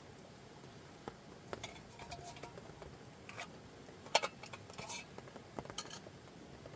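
Scattered light clinks and knocks of small objects being handled, the loudest a little past four seconds in, over a faint steady hiss.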